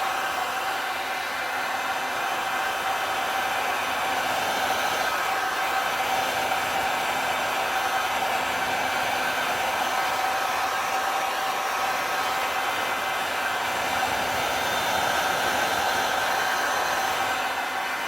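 Handheld heat gun running steadily: a constant rush of blown air with a steady motor whine.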